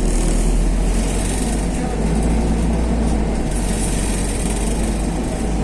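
Inside a MAZ-215 articulated city bus: a steady low diesel and road rumble with a hiss over it.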